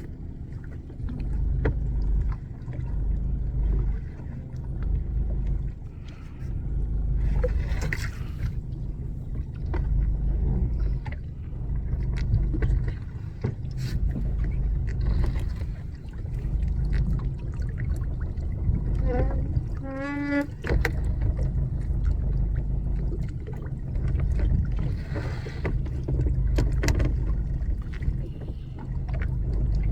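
Wind and sea noise aboard a small open fishing boat, rising and falling in gusts, with scattered knocks and a brief high squeal about twenty seconds in, while a fish trap is being hauled.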